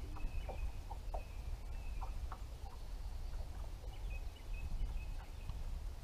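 Birds calling: a scatter of short, low-pitched notes and a few brief, higher held notes, over a steady low rumble.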